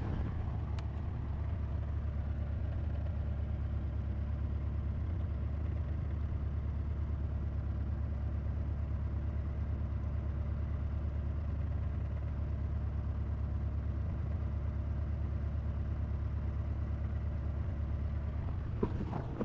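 Lexus engine idling steadily, a smooth low hum that holds the same pitch and level throughout. It is left running so a leak can be traced, and while running it slowly leaks transmission fluid from the bell housing.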